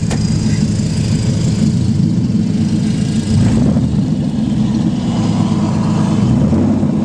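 Nissan 300ZX (Z32) naturally aspirated 3.0 L V6 running with no exhaust fitted: a loud, steady, raw rumble, swelling briefly about three and a half seconds in.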